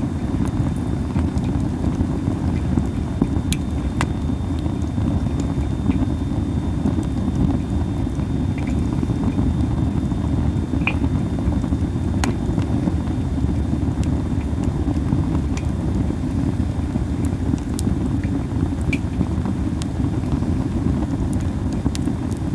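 Masaki (Japanese spindle) wood burning in an open fire, giving off sharp crackles and pops every second or two over a steady low rumble.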